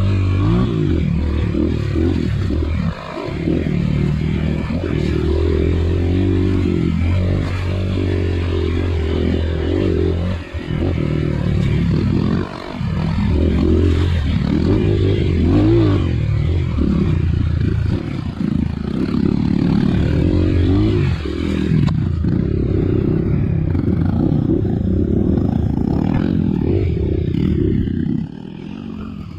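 Dirt bike engine revving up and down over and over, with short breaks in throttle. It drops to a lower, steadier level near the end.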